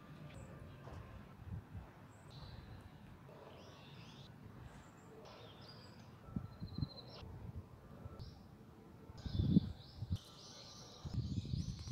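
Small birds chirping outdoors in short, high calls, scattered at first and more frequent near the end, with a few low thumps, the loudest about nine and a half seconds in.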